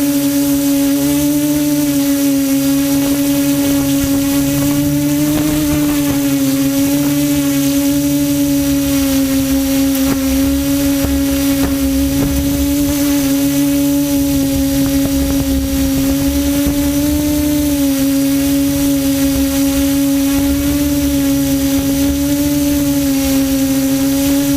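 QAV400 quadcopter's electric motors and propellers running in flight, a loud steady hum with small wavers in pitch as the throttle shifts.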